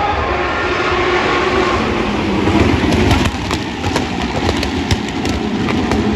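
Race cars running past on the circuit: a loud, steady rush of engine and tyre noise that peaks about three seconds in, with a few sharp clicks.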